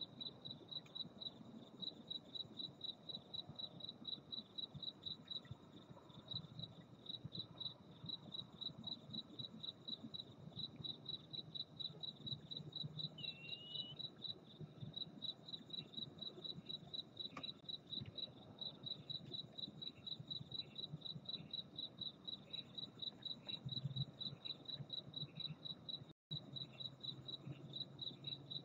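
Crickets chirping steadily: a high, evenly pulsing chirp about two to three times a second, with fainter short chirps from another insect joining from about halfway.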